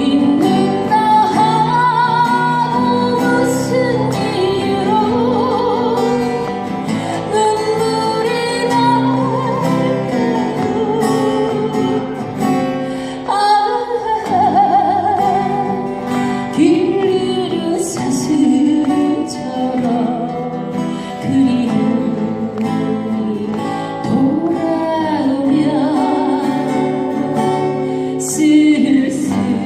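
A singer performing a song live with acoustic guitar accompaniment, the held notes sung with vibrato.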